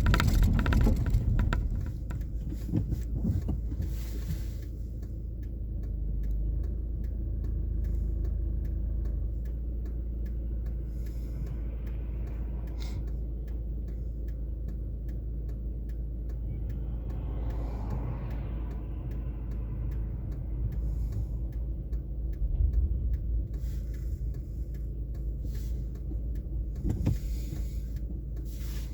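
A steady low rumble with faint, regular ticking, and a short swell of hiss about eighteen seconds in.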